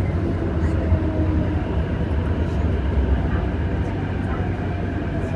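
Inside a moving MTR metro train, a CNR Changchun-built electric multiple unit: a steady running rumble with a faint whine from the drive.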